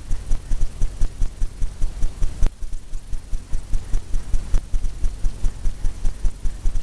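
Brush tapping rapidly against a pre-stretched canvas, a steady run of dull thumps about four to five a second as wet paint is stippled on.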